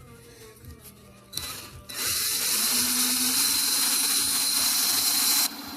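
Power drill spinning a part against a polishing pad: a loud, even scrubbing hiss starts about two seconds in and cuts off suddenly near the end, while the drill's motor hum carries on.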